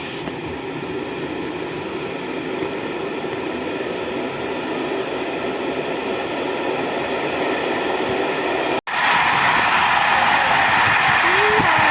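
Passenger train running: a steady rolling rumble with a steady whine over it. About three-quarters of the way through it cuts to a louder, brighter stretch of train noise.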